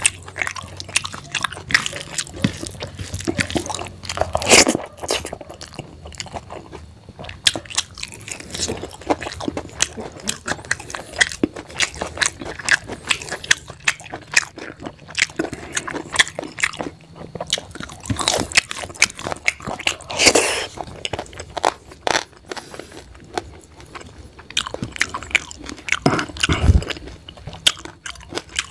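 Close-miked chewing of a mouthful of rice and curry eaten by hand: wet, smacking mouth sounds and bites, with a few louder bites about four, eighteen and twenty seconds in.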